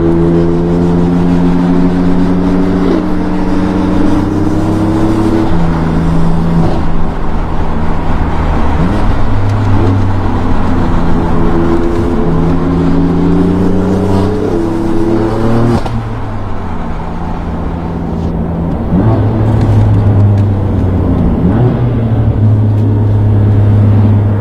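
BMW performance car engine under load, its pitch climbing steadily and then dropping sharply a few times, as at gear upshifts.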